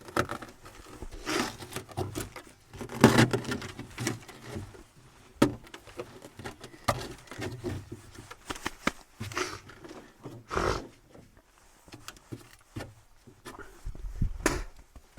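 Irregular knocks, scrapes and crunches from handling gear and moving about, with louder clunks about three seconds in and again near the middle and the end.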